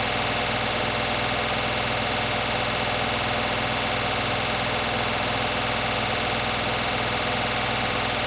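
Beko WTK104121W washing machine on its spin cycle, the drum spinning steadily at speed with a constant motor whine and hum.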